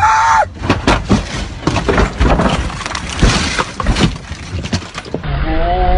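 Car crash: a rapid string of impacts and crunching with glass breaking, lasting about four and a half seconds.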